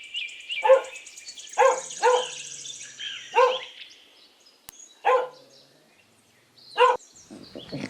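A dog barking: about six single barks at uneven intervals, with a pause of nearly two seconds before the last.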